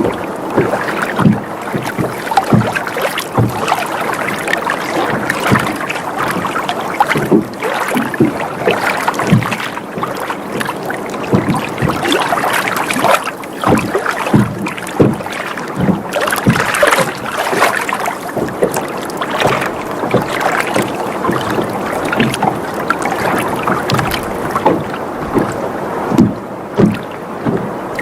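Water sloshing and lapping against a boat's hull, a steady wash of water broken by many small splashes, several a second.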